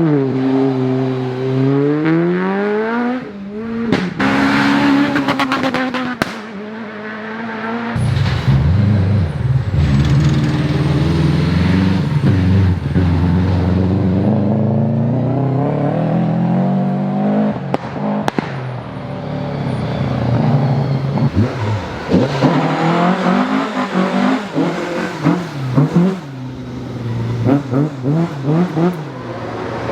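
Rally car engines at full stage pace, their pitch falling and rising as the drivers lift, brake and accelerate through gear changes, with a run of sharp pops and cracks in the last third.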